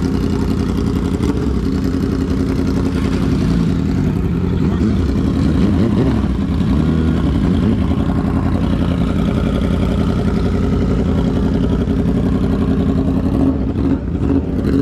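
Motorcycle engine running at low speed while the bike is manoeuvred into a parking spot, its pitch rising and falling slightly around the middle as the throttle is worked.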